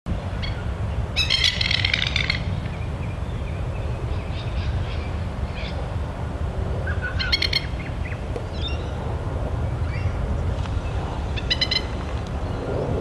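Masked lapwing calling in bouts of rapid, short repeated notes: the longest run comes about a second in, with shorter runs around seven seconds in and near the end. A steady low rumble runs underneath.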